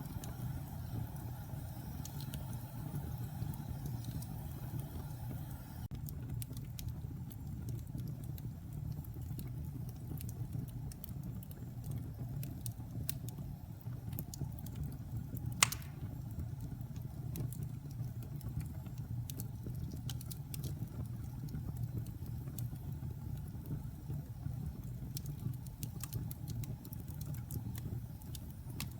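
Logs burning in a fireplace: a steady low rumble of the fire with scattered small crackles, and one sharp, louder pop about halfway through.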